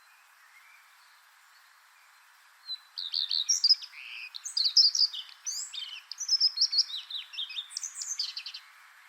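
Common redstart singing: after a short quiet spell, a song of about six seconds, made of quick, varied high chirps, whistles and trills, starts about three seconds in and stops near the end.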